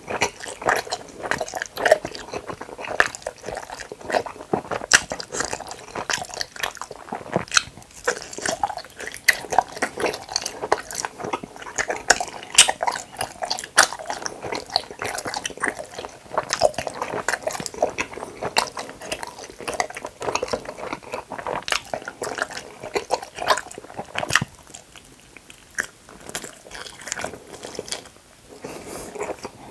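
Close-miked chewing of hamburger-shaped gummy candy: a dense run of short mouth clicks and smacks, with a brief lull a few seconds before the end and then a bite into a small burger gummy.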